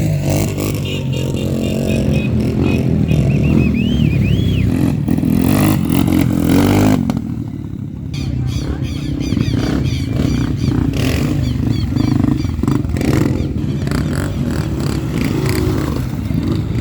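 Off-road trail motorcycles running and being revved in neutral, engine pitch rising and falling with the throttle.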